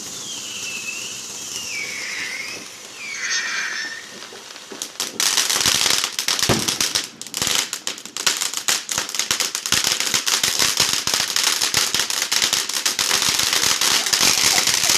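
Fireworks: a few wavering whistles over a hiss in the first few seconds, then from about five seconds in a loud, dense crackling of many rapid small pops that keeps going.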